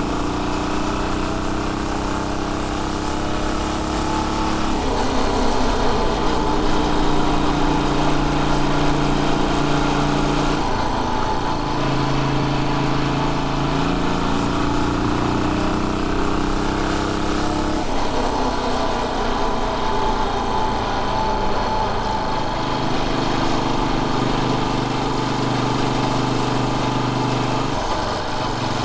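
Royal Enfield Bullet 500 single-cylinder four-stroke engine running while riding. The engine note holds steady for a few seconds at a time and shifts to a new pitch several times, with light wind and road hiss underneath.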